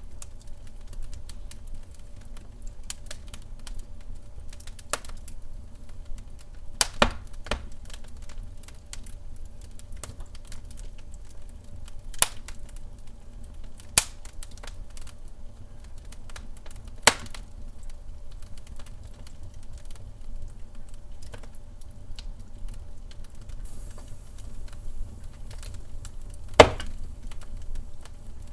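Wood fire burning in a fireplace, crackling steadily over a low rumble, with several sharp pops from the burning logs and the loudest one near the end.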